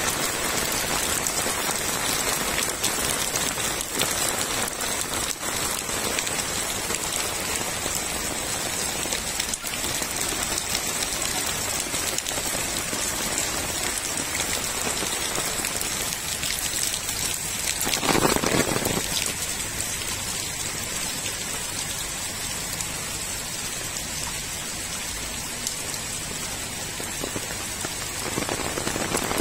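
Heavy rain falling steadily on flooded ground and standing water, a constant dense hiss of drops. About two-thirds of the way through, a louder noise swells for about a second.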